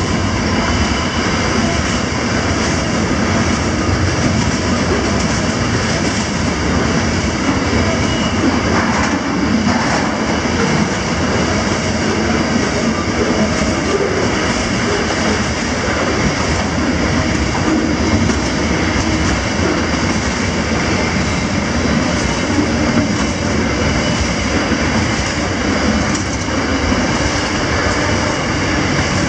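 Container wagons of a long intermodal freight train rolling past close by: a steady, loud rumble and rattle of wheels on rail, with a thin high tone running through it.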